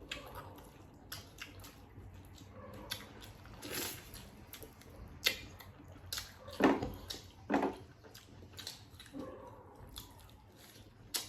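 Close-up eating sounds from a mukbang: wet chewing and lip smacks with scattered short clicks and crunches, a few louder ones in the middle.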